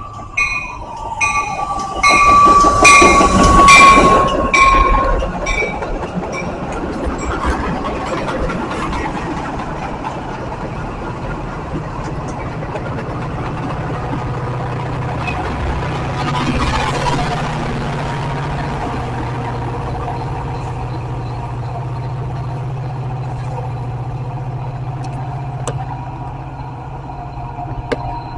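Metra commuter train passing at speed. A horn sounds and a bell rings in steady strokes as the cab car approaches, loudest a few seconds in. Then the bilevel cars go by with a steady rush and wheel clatter, and the low drone of the diesel locomotive pushing at the rear builds in the second half.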